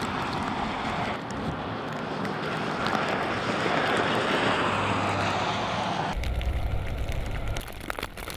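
A vehicle passing on a snowy road, its engine and tyre noise swelling to a peak about four seconds in and easing off. About six seconds in it gives way abruptly to a deep low rumble with scattered crackles near the end.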